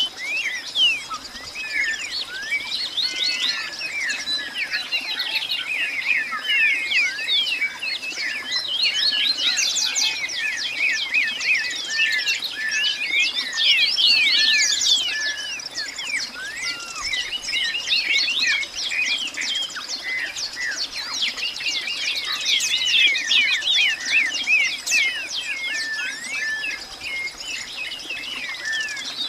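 Dense chorus of many birds chirping at once, short rapid chirps and sweeping calls overlapping throughout, over a faint steady high-pitched tone.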